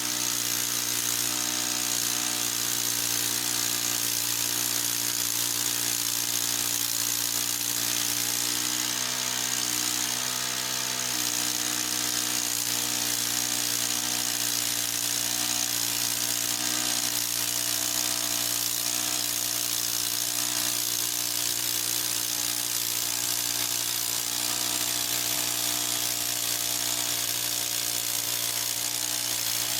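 Harbor Freight band sawmill running at a steady speed: an even engine hum with a high whine over it. The pitch dips briefly about ten seconds in.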